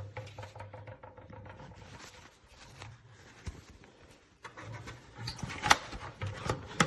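Handling noises as a replacement vacuum bag is taken out and fitted into an upright vacuum's bag compartment: scattered rustles and light knocks, with a few sharper clicks in the second half.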